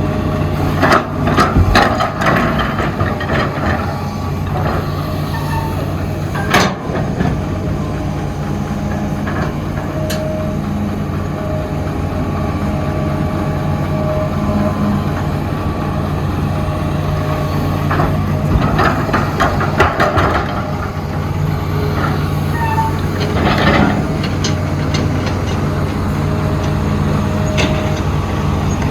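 Heavy diesel engine of an excavator running steadily under work, with scattered knocks and rattles of digging and loading: a cluster about a second or two in, a single sharp knock near seven seconds, and more around eighteen to twenty and twenty-four seconds.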